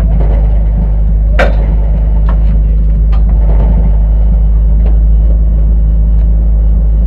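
Front-wheel-drive four-cylinder enduro car's engine running at low speed, heard from inside the stripped cabin as a loud steady drone, with several sharp knocks and rattles, the loudest about one and a half seconds in.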